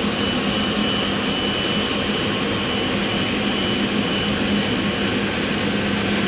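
Boeing 777-300ER's GE90-115B turbofan engines running: steady jet engine noise with a thin high whine over a low hum, holding level throughout.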